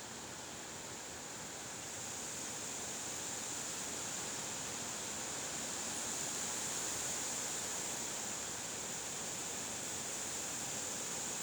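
Steady rushing noise of wind, a hiss with no gusts or knocks, swelling a little about two seconds in and easing slightly near the end.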